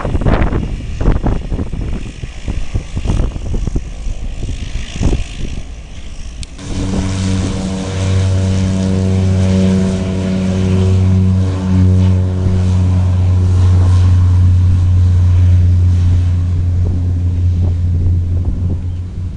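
Gusty wind buffeting the microphone, then, about six and a half seconds in, a steady low engine drone starts and holds at an even pitch.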